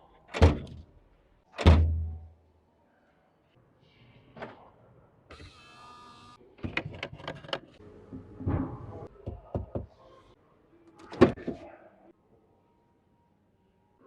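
Car doors shut twice with solid, heavy thunks. Then comes a brief electric motor whine, like a power window or mirror moving, followed by a series of latch-like clicks and knocks.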